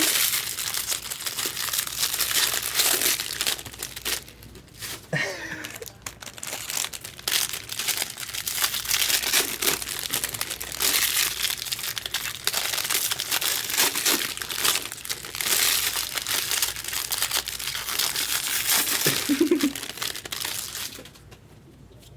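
Plastic-foil wrappers of baseball card packs crinkling and tearing as packs are ripped open and handled, in dense irregular crackles; it falls quiet shortly before the end.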